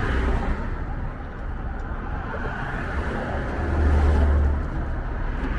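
Road traffic noise: a steady low rumble of passing vehicles that swells about four seconds in.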